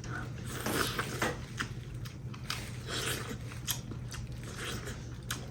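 Irregular crunching and snapping of crab shells being cracked and pulled apart by hand while eating, with chewing, many short sharp cracks through the whole stretch.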